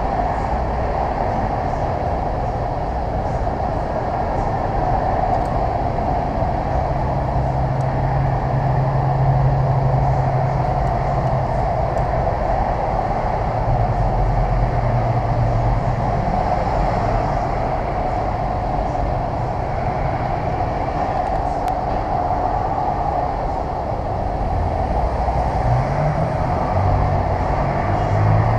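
Steady mechanical rumble and hiss, like a running vehicle engine or shop machinery, with a low hum that comes and goes and rises in pitch near the end.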